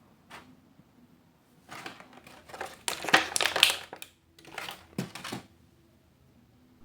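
Plastic blind-bag packaging crinkling and crackling in hand as it is opened, in two bursts, the first and longer one starting a little under two seconds in.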